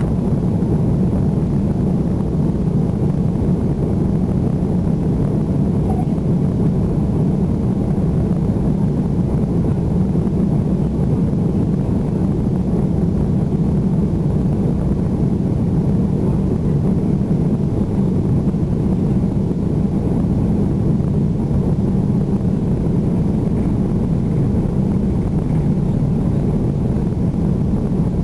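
Steady low rumble of an Airbus A330's engines and airflow heard inside the passenger cabin, with the engines at low, even power on the ground before takeoff.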